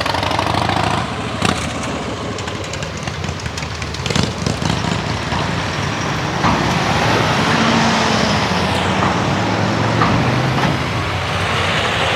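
Cars driving off a car ferry one after another, engines running and tyres rolling close by, with a couple of sharp clunks in the first few seconds.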